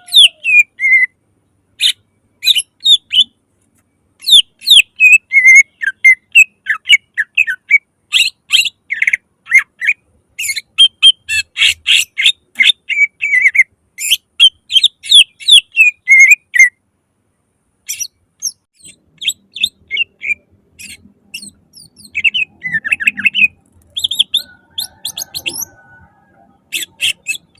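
Greater green leafbird (cucak ijo) singing loudly: a fast run of sharp, sliding whistled notes and chatters in bursts, with a couple of short pauses, the phrases coming more sparsely in the last third.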